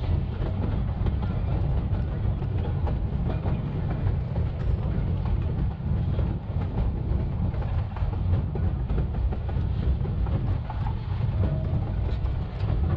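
Narrow-gauge vintage rail cars rolling along the track: a steady low rumble with irregular clicks and knocks from the wheels and couplings, running at double speed.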